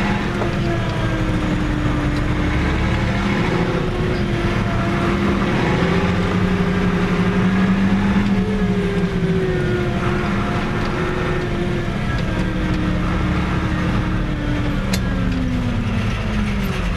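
Fiat 110-90 tractor's diesel engine running under way, heard from inside the cab. Its note climbs steadily, drops sharply about eight seconds in, climbs again and falls away near the end.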